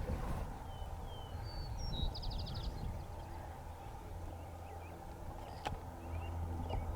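Steady low wind rumble on the microphone, with a songbird's chirps and a short rapid trill about two seconds in.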